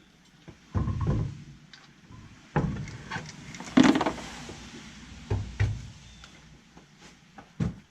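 A series of irregular heavy clunks and knocks, about six in all, typical of tools and car parts being handled during a brake job.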